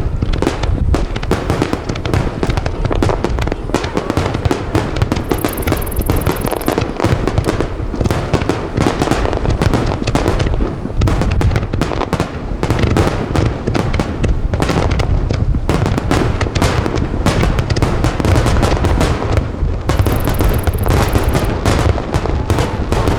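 Aerial fireworks shells bursting in a dense, continuous barrage, booms and crackles overlapping without a break, with music playing alongside.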